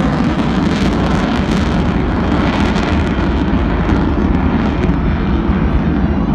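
Loud, steady roar of the F-35A Lightning II's single turbofan jet engine in a display flight. The sharpest hiss thins out after about two seconds as the rumble carries on.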